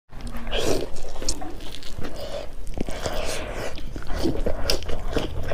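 Close-miked biting and chewing of smoked pork and then a stalk of boiled mustard greens, with many small mouth clicks.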